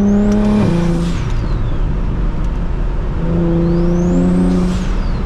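Straight-piped single-turbo BMW 335is N54 inline-six on throttle at steady revs, breaking off sharply about half a second in and pulling again from about three seconds. Each pull carries a high turbo whistle that rises and then falls.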